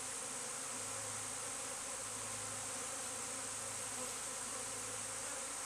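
A swarm of honeybees buzzing steadily, many bees humming at once.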